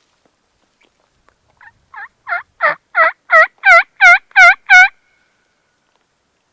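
Wild turkey yelping: a run of about ten evenly spaced yelps, about three a second, growing louder over the first several.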